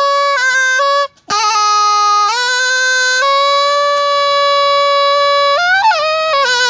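Solo Thai pi, a reed oboe, playing a melody with a bright, nasal tone. The line breaks briefly about a second in, holds one long note through the middle, and bends quickly in pitch near the end.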